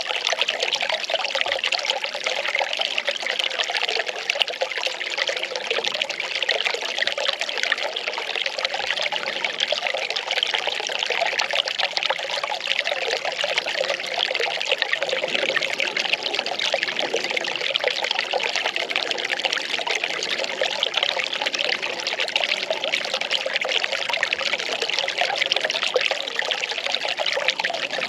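Well water pouring and trickling steadily.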